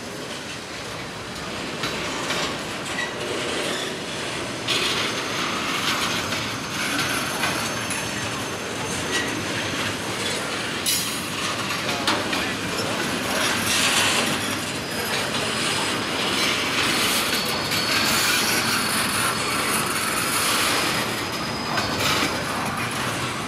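A train rolling past on the rails, its wheels clacking over the track with thin, high wheel squeal coming and going.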